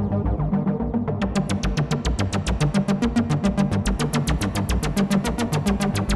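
Behringer TD-3-MO bass synthesizer playing a fast arpeggiated line of short notes, about seven a second, through effects. About a second in the notes turn much brighter and buzzier.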